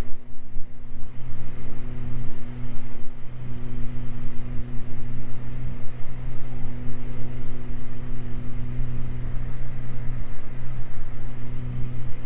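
Steady drone of a Beechcraft G58 Baron's twin piston engines and propellers, heard from inside the cockpit: a low, even hum.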